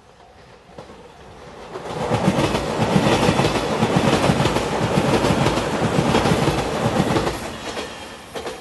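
JR Shikoku 8000 series electric limited express passing close by, its wheels clattering over the rail joints in a quick rhythm. The sound builds over the first two seconds, holds loud, then falls away near the end.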